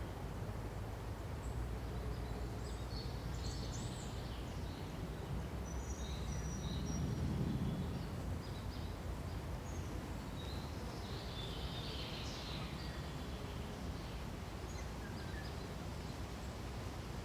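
Forest ambience: a steady low rush of wind through pines that swells briefly about seven seconds in. Over it come scattered high, short bird chirps, bunched a couple of seconds in and again about twelve seconds in.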